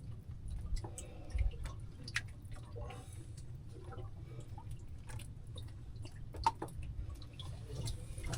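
Water dripping and lapping, with scattered small clicks and taps from handling fishing gear, over a steady low rumble.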